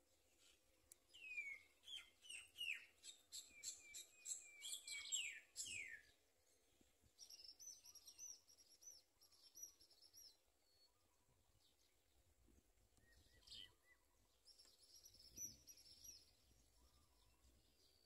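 Small birds chirping: about a second in, a fast run of chirps with quick downward sweeps lasts several seconds, then higher, thinner chirp series come twice more.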